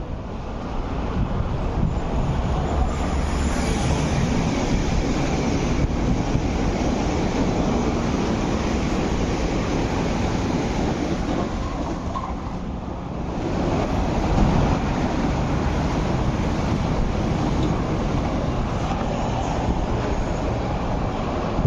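MTR East Rail Line R-train, a 9-car electric multiple unit, passing at about 110 km/h: a steady rush of wheels on rail that dips briefly about halfway and then swells again.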